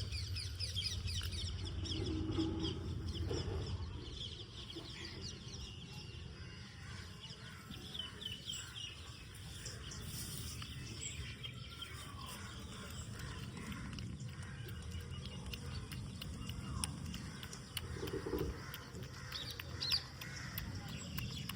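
Newborn Shih Tzu puppies squeaking and whimpering in many short, high chirps, most in the first few seconds and again near the end, over a low rumble of handling noise.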